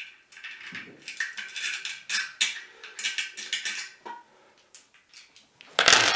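Metal tank-bolt hardware (bolts, nuts and washers) being handled, with quick light clinks and rattles, and one loud knock near the end.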